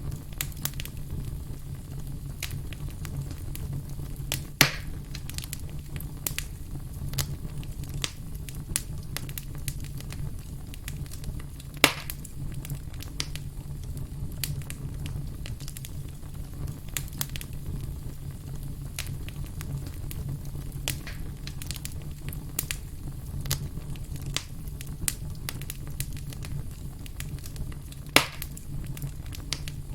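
Wood campfire crackling, with frequent small pops and three louder snaps over a steady low rumble of the burning fire.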